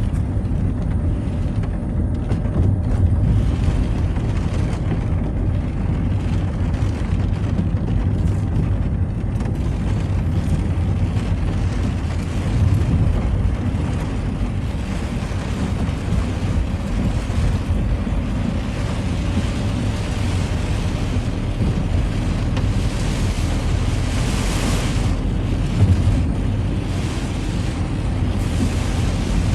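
Citroën Xsara driving on a rain-wet road: a steady low rumble of engine and tyres with a constant hiss. Late on, a louder hiss swells for about two seconds and fades.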